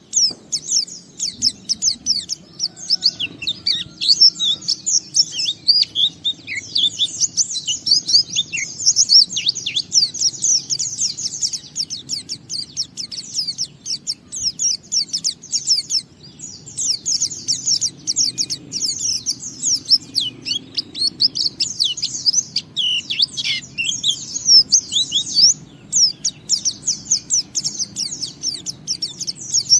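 White-eye (pleci) singing a long, fast, almost unbroken run of high twittering and chirping notes, the extended 'ngalas' song, with only a few brief pauses.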